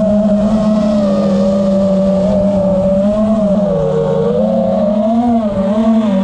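Five-inch FPV quadcopter's brushless motors and props whining steadily, the pitch wavering up and down with throttle changes, briefly dipping about four seconds in.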